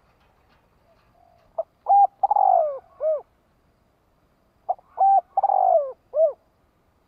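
Spotted dove cooing twice, each phrase a short note, a held note, a longer falling note and a closing note. It is a decoy dove's call, used to draw in wild doves.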